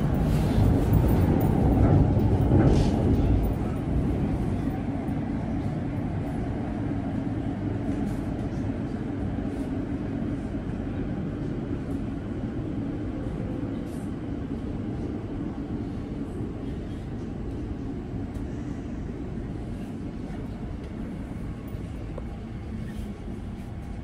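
Inside an Elizabeth line Class 345 train running through a tunnel: a steady low rumble of wheels and running gear, loudest in the first few seconds and then slowly quietening as the train slows into a station.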